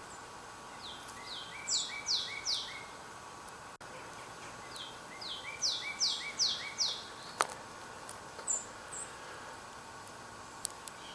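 A songbird singing two phrases, each a quick run of about five down-slurred whistled notes that grow louder, followed by a few short chirps. A single sharp click sounds about seven seconds in.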